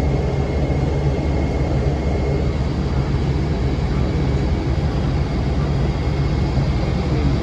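Cummins ISM diesel engine of a 2006 NABI 40' low-floor bus running with its engine cooling fan on: a steady low drone with a faint, steady high-pitched whine.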